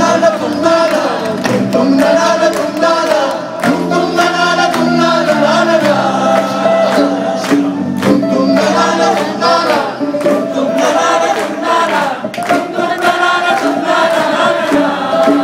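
Live band music with sung vocals over a held bass line and a steady drum beat.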